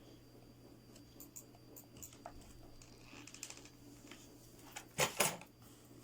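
Faint clicks and light taps from handling small cardboard pieces while hot-gluing them together, over a low steady hum. Two brief louder sounds come about five seconds in.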